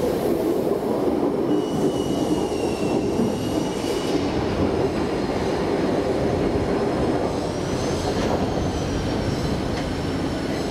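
A train rolling slowly over the rails with a steady rumble, its wheels squealing in thin high whines that drift up and down in pitch.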